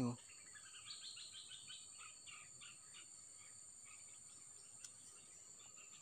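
A small bird chirping in a quick run of short notes through the first half, over a steady high-pitched drone of insects.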